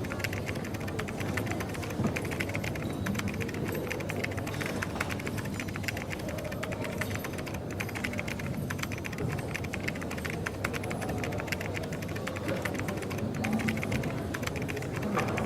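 Coffee shop ambience: a steady low hum and murmur with dense, rapid light clicks throughout.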